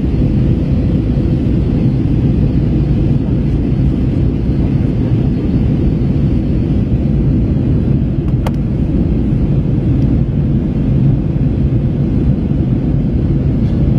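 Steady low rumble inside an Airbus A321 airliner cabin in flight, from the engines and the air rushing past the fuselage. A single brief click sounds about halfway through.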